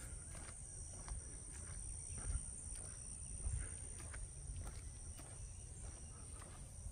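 Footsteps on a trail, light irregular steps and knocks, under a steady high-pitched drone of swamp insects.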